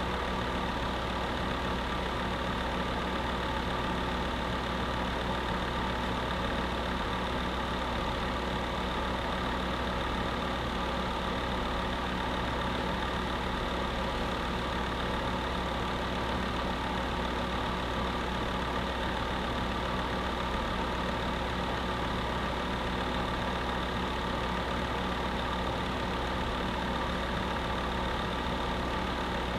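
Electric space heater running steadily: a constant whooshing noise with a steady motor hum under it, unchanging throughout.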